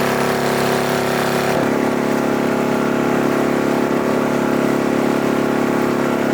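Inflatable boat's outboard motor running steadily, its engine note shifting about one and a half seconds in as the throttle changes.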